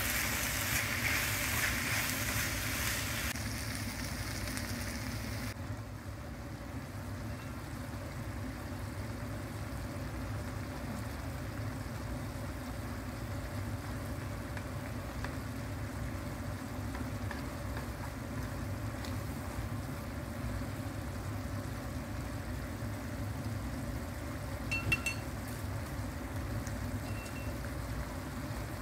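Sliced beef, onion and shimeji mushrooms sizzling in a frying pan as they are stirred with chopsticks. After about five seconds the sizzle drops away, leaving a steady low hum over the quietly simmering sauce, with a light clink of chopsticks near the end.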